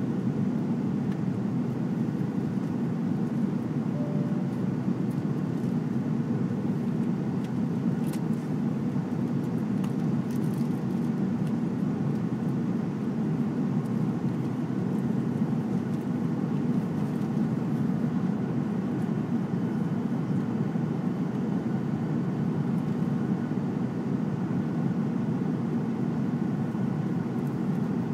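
Steady cabin noise inside an Airbus A340-600 airliner at cruise altitude: an even, low roar of engines and airflow that does not change. A faint click sounds about eight seconds in.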